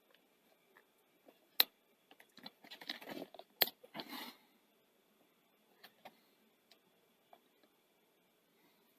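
Hands working small parts of a videocassette recorder's deck mechanism: a few sharp clicks and a short spell of scraping and rustling about two to four seconds in, then only a couple of faint ticks.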